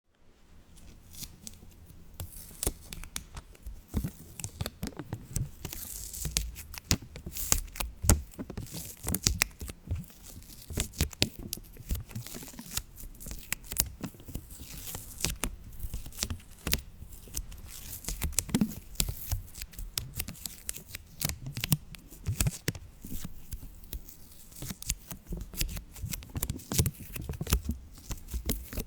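Dense, irregular crinkling and crackling of handled material: a rapid, uneven run of sharp clicks over a light hiss.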